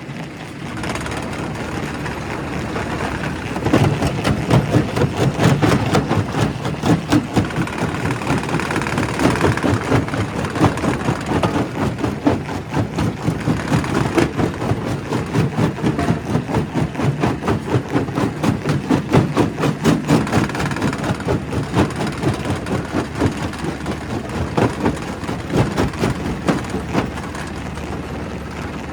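Primary rock crusher working on stone: a dense, clattering crush over a steady machine rumble. It grows louder about four seconds in and pulses unevenly about twice a second as rock is broken.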